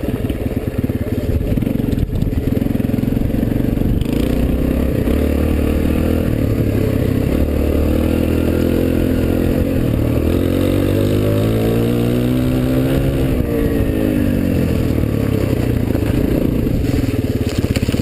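Suzuki DR-Z125L dirt bike's single-cylinder four-stroke engine running under way, its pitch climbing steadily midway as it revs up, then dropping off as the throttle eases.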